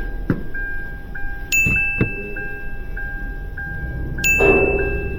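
A Kia Optima's warning chime sounding twice, each tone ringing for about a second and a half, over a fainter repeating beep. A couple of dull knocks come in the first two seconds.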